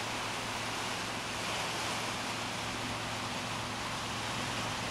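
Steady, even rushing outdoor noise with a faint low hum underneath, unchanging throughout.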